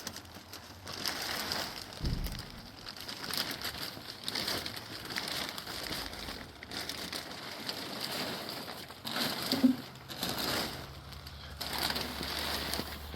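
Plastic being handled, crinkling and rustling in irregular bursts with small clicks, and a brief louder sound about nine and a half seconds in.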